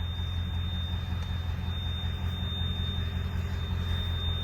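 Steady low rumble of the 1995 Ford E350 ambulance's turbo diesel engine idling, heard from inside the rear box, with a faint steady high-pitched whine over it.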